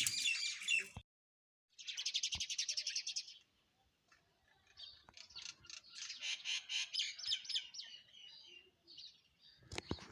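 Small songbirds chirping. A burst of chirps cuts off to dead silence about a second in, then comes a fast run of chirps, and later a longer string of chirps, with a couple of sharp clicks near the end.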